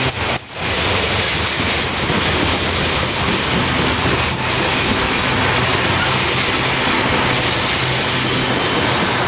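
Covered hopper cars of a freight train rolling past on the rails: a steady noise of steel wheels on track.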